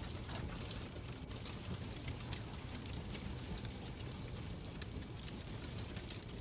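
Fireplace crackling: irregular small pops and ticks over a steady low rumble.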